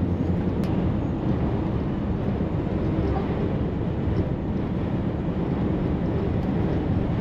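Heavy truck driving at road speed, heard from inside the cab: a steady drone of engine and tyre noise.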